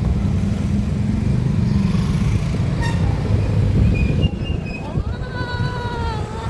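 Motor vehicle running with a steady low road rumble. Near the end a pitched tone rises and holds.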